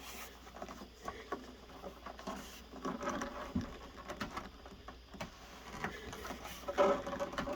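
Scattered small clicks, scrapes and rubbing as a rubber window-channel gasket is worked by hand down into the metal window channel of a truck door.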